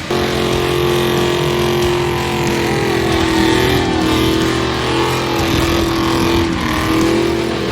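Turbocharged LS V8 of a street-legal stock car running at a steady engine speed, with a few small pitch changes partway through.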